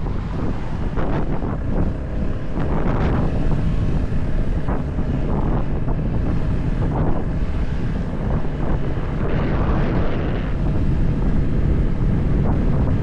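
Motorcycle riding along the road: steady engine drone under heavy wind noise buffeting the microphone.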